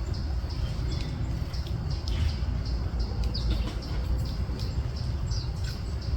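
Birds chirping: short high calls every second or so, over a steady low rumble.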